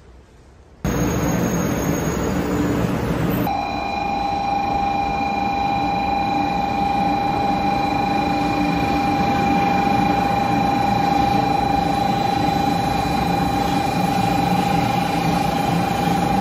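A 500 series Shinkansen train moving along the station platform: a steady rush of running noise that starts about a second in, with a steady electric whine that grows stronger about three and a half seconds in.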